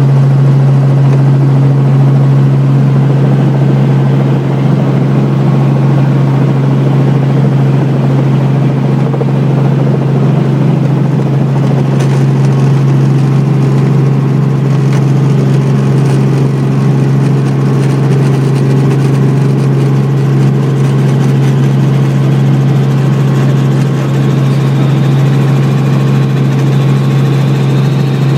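Helicopter engine and rotors running at a steady low hum, heard from on board.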